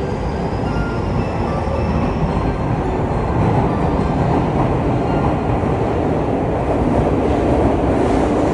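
Tokyu 5050 series electric commuter train pulling out of the station: a steady rumble of running gear and wheels on rails that grows slightly louder.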